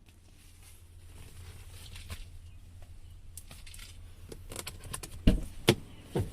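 Small clicks and taps of a car's exterior door handle and door being worked, with two sharp knocks about five seconds in, over a low steady hum.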